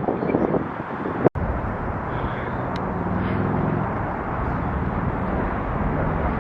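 A steady rumble and rush of an Amtrak Northeast Regional train running on the Northeast Corridor, with a faint low hum under it. The sound cuts off abruptly about a second in, then picks up again.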